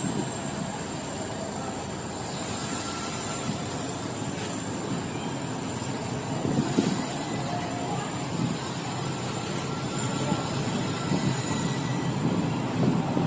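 Passenger train coaches rolling past on the rails, a steady rumble of wheels on track with a few sharp knocks, growing slightly louder as the train picks up speed.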